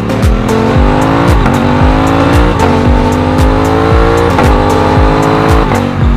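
Aprilia RS660 parallel-twin engine accelerating hard, its pitch climbing and dropping back at each of four quick upshifts. A beat of electronic music with a steady kick drum runs underneath.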